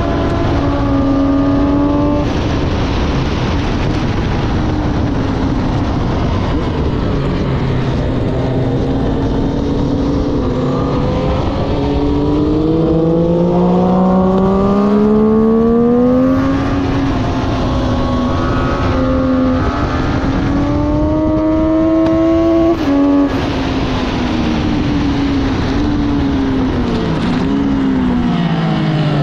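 Sports motorcycle engine at full lap speed, its pitch climbing hard and breaking with each upshift, then falling away in steps as the revs drop near the end. A constant rush of wind noise runs under it.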